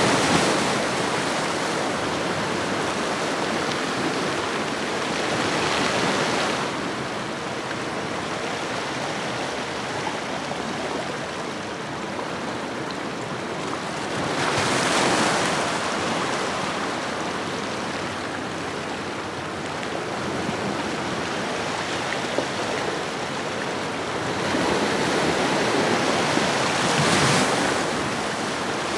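Ocean waves washing onto a shoreline: a steady hiss of surf that swells into a louder wash three times, about six, fifteen and twenty-seven seconds in.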